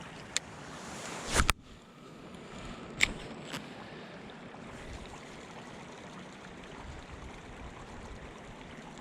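River water flowing steadily. A click comes early, then a short swish about a second and a half in that rises and stops abruptly, and two more clicks about three seconds in.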